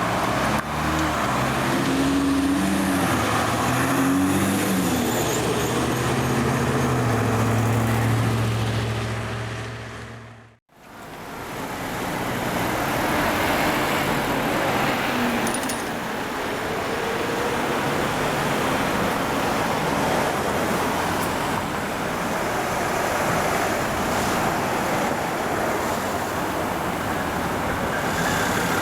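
A fire truck's engine pulling away, its pitch climbing in steps through the gears, until the sound fades out. Steady road and traffic noise follows from passing apparatus.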